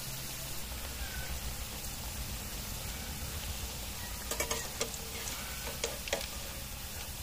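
Pumpkin-flower pakoras frying in hot oil, a steady sizzle, with a few sharp clicks a little past the middle.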